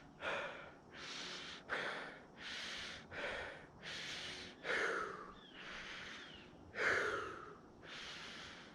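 A man breathing hard and fast through a face mask, out of breath from strenuous skating: about five in-and-out breaths, each a rushing puff of air.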